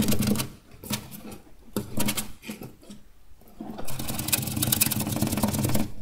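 Hamster gnawing and chewing food: fast, dense crunching clicks over a steady low hum. The clicks are loud in the first moment, thin out, and turn dense again from about four seconds in.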